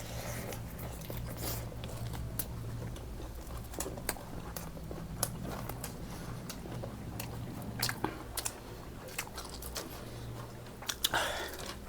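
A person chewing and biting food, with many irregular small clicks and crunches of eating, over a steady low hum.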